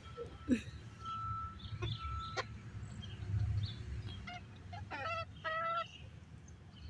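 Bantam hens clucking, a few short calls, the clearest about five seconds in.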